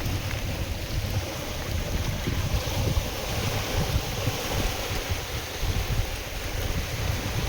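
Wind gusting across the microphone in a steady, unsteady rumble, over the wash of wind-driven waves on a lake.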